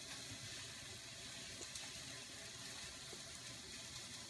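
Ground beef browning in an Instant Pot on sauté, a faint steady sizzle, with a few light ticks of a chef's knife trimming a bell pepper on a plastic cutting board.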